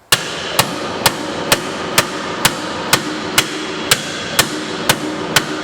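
Hammer blows on a metal loading-ramp rung, about two a second in a steady rhythm. The rung is being bent down and rounded over where a lawn tractor's mowing-deck blade shaft catches on it.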